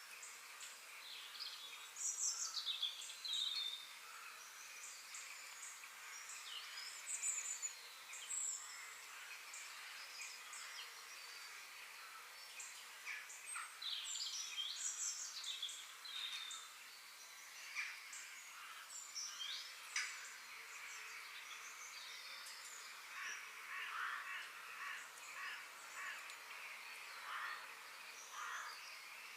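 Several birds chirping and calling over a faint steady background hum of the outdoors, with brief chirps and trills coming thickly throughout, busiest around two, seven, fourteen and twenty-four seconds in.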